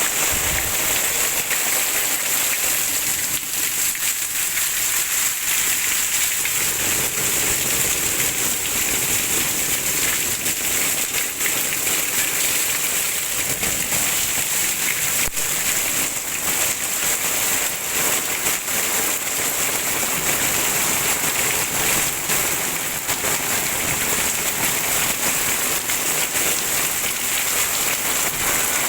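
Heavy rain falling steadily: a dense, even hiss with many small drop impacts.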